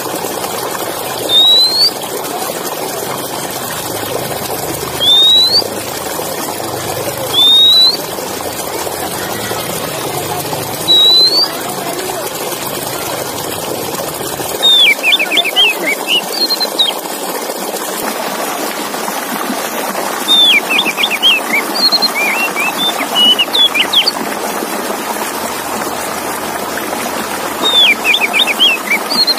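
A songbird repeating a short rising whistle every two to three seconds. About halfway through it switches to quick bursts of rapid falling notes. A steady hiss of background noise runs underneath.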